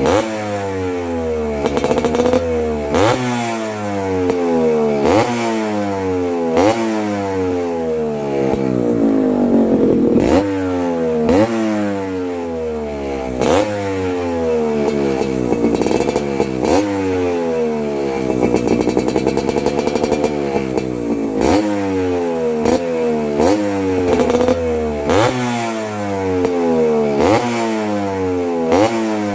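Yamaha RX135 two-stroke motorcycle engine through an expansion-chamber exhaust, revved with repeated quick throttle blips: each one shoots up sharply and falls back, about once a second, with a short steadier stretch near the middle.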